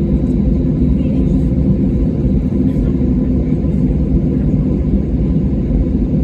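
Airliner cabin noise heard from inside the cabin: a steady low rumble from the jet engines and airflow, with a faint steady hum over it.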